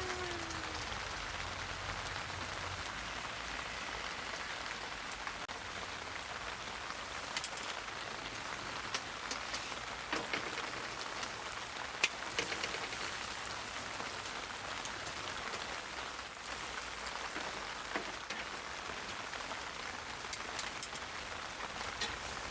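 Steady rain falling, with scattered sharp taps of drops.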